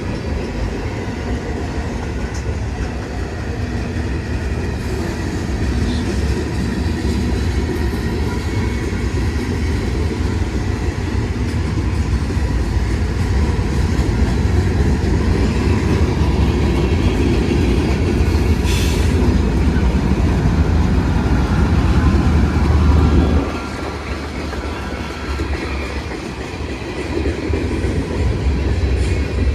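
Freight train rolling past, with a steady low rumble and clatter of railcar wheels on the rails. A brief high squeal comes about two-thirds of the way through. The rumble drops off suddenly a few seconds before the end.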